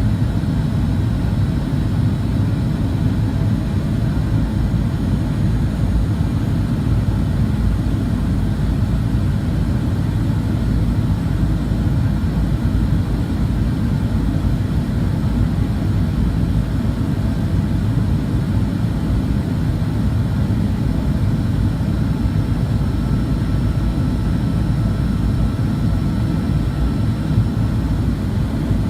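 Steady rumble of jet-airliner cabin noise in flight: engine and airflow noise that is strongest in the low range, with faint steady tones above it and no change.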